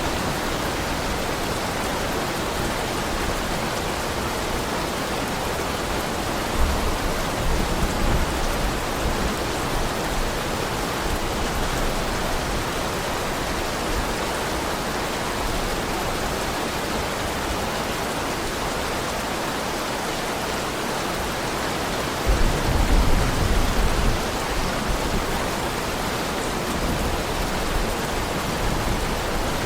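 Heavy rain falling steadily, with two low rumbles rising above it: one about seven seconds in and a stronger one a little past twenty seconds in.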